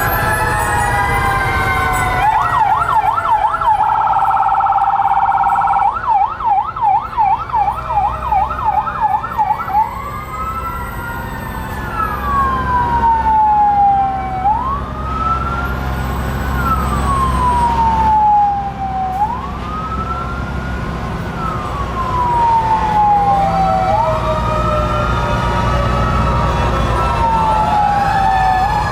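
Fire truck sirens, several overlapping. One runs a fast yelp for the first several seconds, then a wail sweeps quickly up and slowly down about every five seconds, over the low rumble of the trucks' engines.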